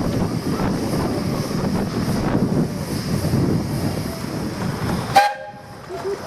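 Miniature steam locomotive running with heavy wind buffeting on the microphone, then a short, sharp toot of its steam whistle about five seconds in, after which the sound drops away abruptly.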